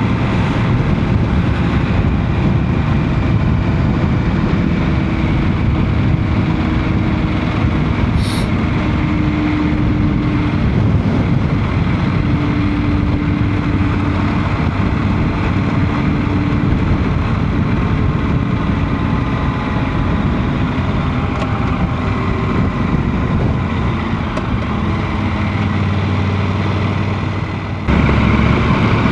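Motorcycle on the move: a steady engine drone under dense wind and road noise, its pitch drifting slightly, with a sudden step up in loudness near the end.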